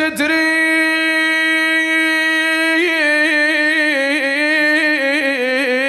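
A man's solo voice chanting a Shia mourning lament, holding one long unbroken note. The note is steady at first, then wavers up and down in ornaments from about halfway.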